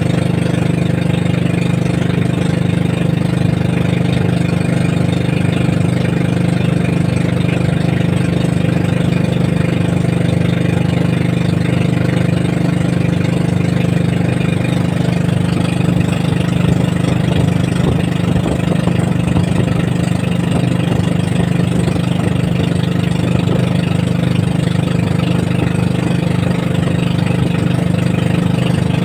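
Boat engine of a motorized outrigger fishing boat (bangka) running at a steady speed, with an even drone throughout.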